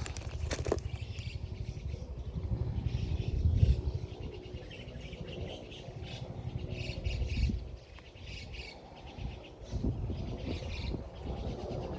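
Small birds chirping and calling in repeated short phrases over a steady low rumble.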